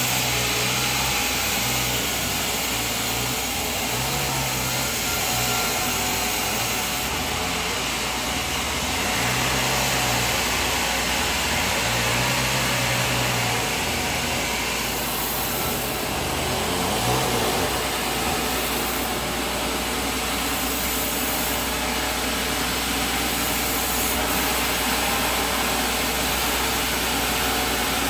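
Sawmill machinery running with a steady mechanical noise.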